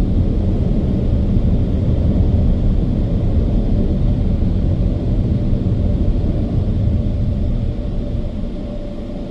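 Car wash dryer blowers running: a loud, steady rush of air, easing off a little near the end as the car moves out of their range.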